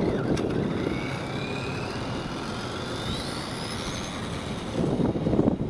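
Small electric motor of a 1/8-scale RC motorcycle whining and rising steadily in pitch for about three seconds as it speeds up, over low rumbling noise that swells near the start and again near the end.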